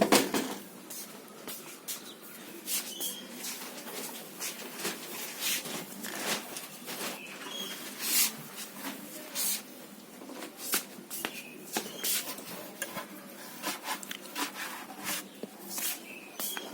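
A cloth wiping down a freshly washed and dried motorcycle: irregular short rubbing and brushing strokes, several a second.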